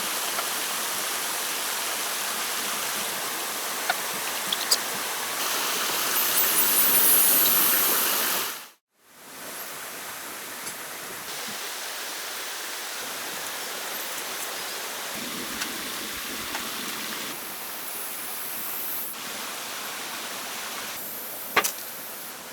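Steady rush of running water. It cuts out suddenly for a moment about nine seconds in, then goes on a little quieter with a few faint clicks.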